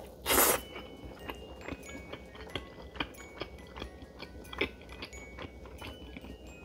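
Close-up eating sounds: a bite into a sauce-glazed chicken drumstick about half a second in, then a run of small wet chewing clicks.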